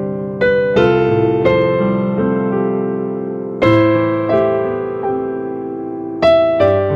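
Piano-type keyboard playing slow, sustained chords, each struck and left to ring and fade, with new chords about a second in, at one and a half seconds, near four seconds and again near the end.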